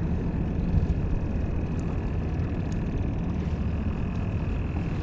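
Electric trolling motor running, a faint steady high whine over a low steady rumble.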